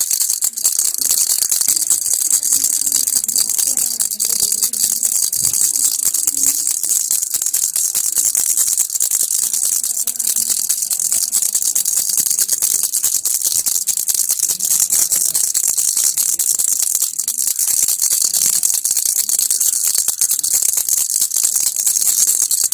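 Baby's toy rattle (kilukki) shaken without a break, making a dense, even, high rattle.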